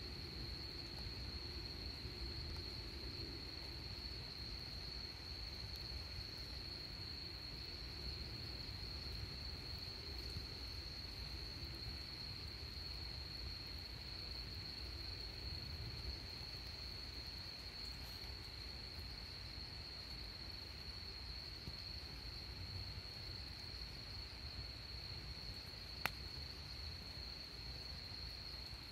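Insects, likely crickets, trilling in one continuous high-pitched drone that holds steady throughout, over a low rumble. A single sharp click sounds about 26 seconds in.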